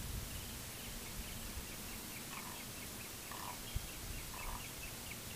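Birds calling over a faint outdoor background: a long run of short, high chirps with three brief, lower calls about a second apart in the middle.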